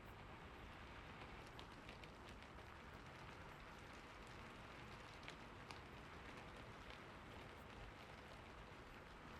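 Faint steady rain, an even hiss with scattered light drop ticks.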